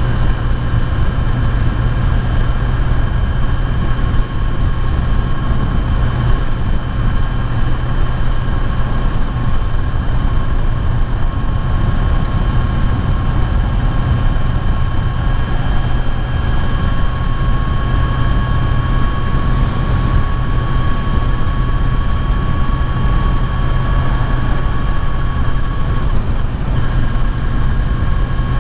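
Kawasaki Z900's inline-four engine running at a steady cruise, its whine climbing slowly in pitch, with a brief dip near the end.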